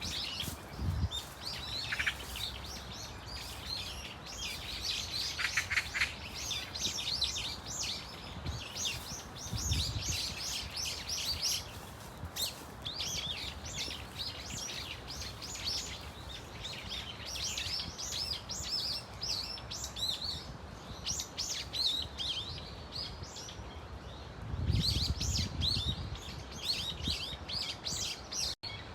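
A flock of brown-eared bulbuls calling, many shrill chirps and squeals overlapping without a break. Brief low rumbles come a third of the way in and again near the end.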